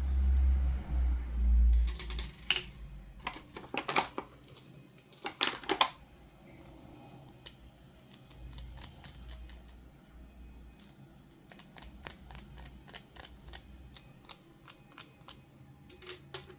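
Doll packaging being handled and opened by hand: a few low thumps at first, then a long series of short, sharp clicks and ticks, coming quickly in runs near the middle and end.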